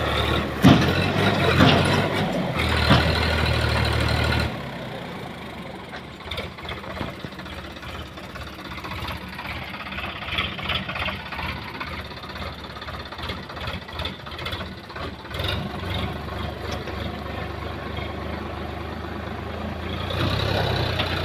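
Tractor engine running under heavy load for the first few seconds, then dropping back to a lower, steady run, and picking up again near the end, as the stuck tractor tries to pull free.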